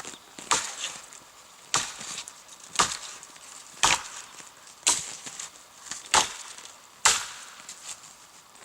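Firewood being chopped with an axe: seven sharp strikes, about one a second, each with a brief splintering crack.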